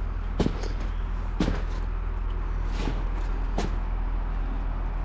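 Footsteps crunching through deep snow, four heavy steps roughly a second apart, over a steady low rumble.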